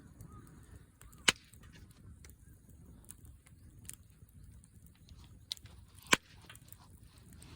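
Firewood burning with faint crackling and two sharp, loud pops, about a second in and again about six seconds in.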